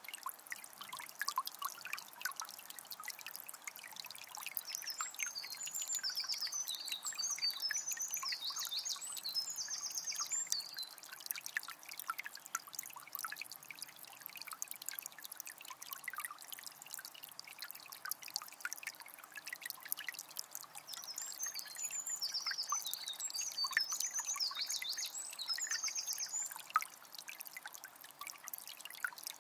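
A calm forest river flowing, trickling and splashing steadily over stones. A songbird sings twice, a few seconds of quick chirping phrases each time, about five seconds in and again near twenty seconds.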